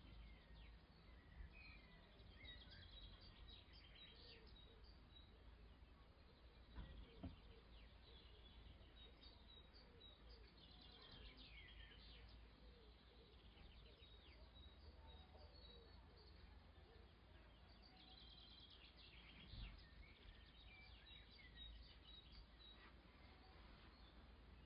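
Near silence: faint bird chirps and trills over a low background rumble, with a couple of soft thumps.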